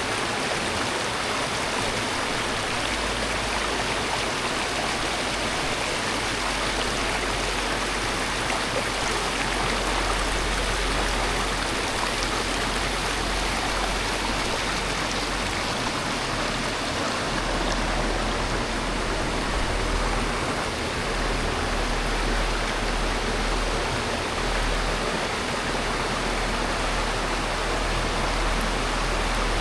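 Valley stream water rushing steadily.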